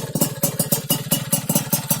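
Yamaha F1ZR's single-cylinder two-stroke engine running steadily through an aftermarket stainless expansion-chamber exhaust and silencer, with a rapid, even beat of exhaust pulses.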